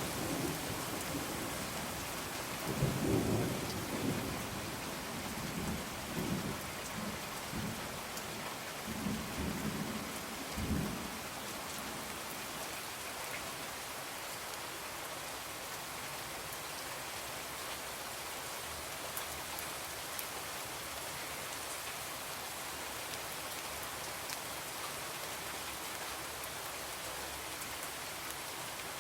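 Steady rain with rolling thunder: low rumbles swell and fade over the first ten seconds or so, the loudest near the start and again around the tenth second, then only the even hiss of the rain remains.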